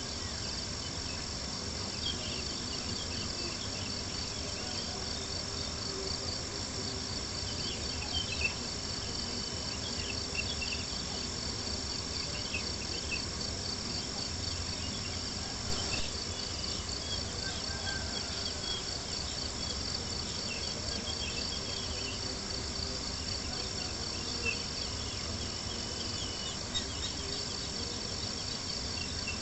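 Crickets chirping in a steady, rapidly pulsing high chorus, over a crackling campfire with small scattered crackles and a few louder pops, and a soft low rumble underneath.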